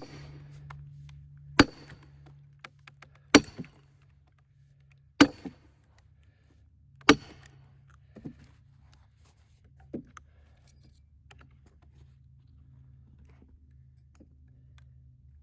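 A heavy hammer striking a steel splitting wedge driven into a cedar log: five hard blows about two seconds apart, each with a short metallic ring, then two lighter knocks. The wedge is opening the log along its grain to split it into fence rails.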